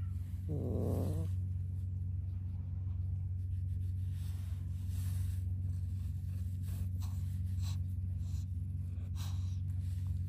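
A cat meows once, briefly, about half a second in, over a steady low hum. Light rustling and soft clicks follow later.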